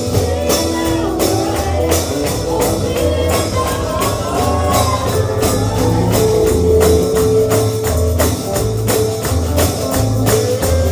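Bluegrass gospel music with a tambourine keeping a steady beat over low bass notes and sustained instrument lines.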